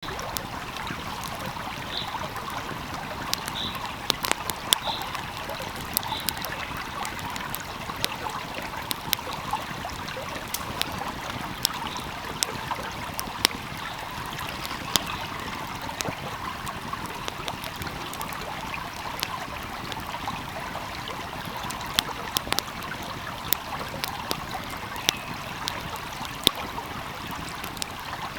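A wood fire crackling with frequent sharp pops, over a steady flowing stream.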